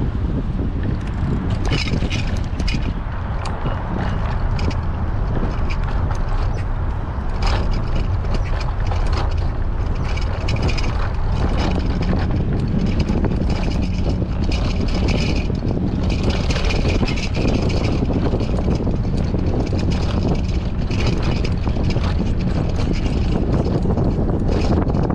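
Strong wind buffeting an action camera's microphone on a moving bicycle: a steady low rumble throughout, with patches of higher hiss and scattered short clicks.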